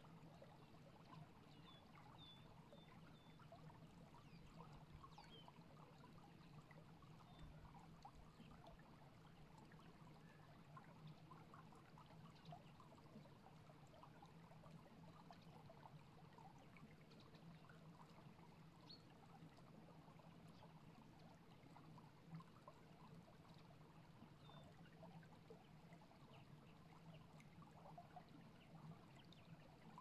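Near silence with a few faint, scattered bird chirps, short high calls here and there, over a low steady hum and a soft crackling hiss.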